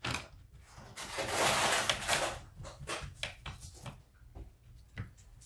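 A watercolor paintbrush at work: a scratchy brushing lasting over a second, starting about a second in, then a series of light taps and dabs.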